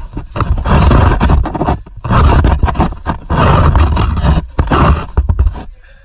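Loud rough rubbing and scraping on the camera microphone, in uneven bursts with short pauses, dropping away near the end.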